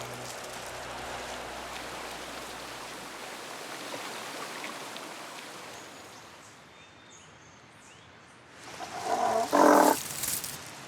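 A tiger roars once near the end, loud and lasting about a second and a half, over a steady hiss of background noise that fades out about two-thirds of the way through.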